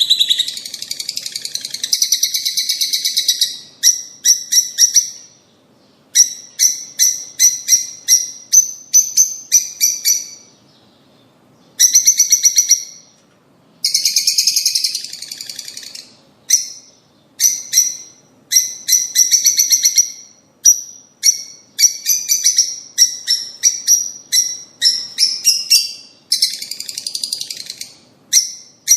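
Lovebirds chirping and chattering: rapid runs of sharp, high calls in bouts of a second or two, with short pauses between them.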